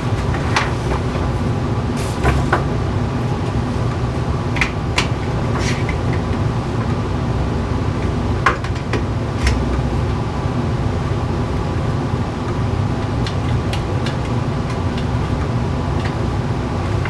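A steady low mechanical hum, with scattered light clicks and knocks from handling clamps and parts during a chair glue-up.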